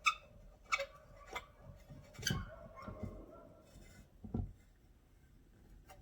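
Sharp knocks and clicks of metal parts being handled on an aluminium pressure canner: about six separate strikes, a couple ringing briefly.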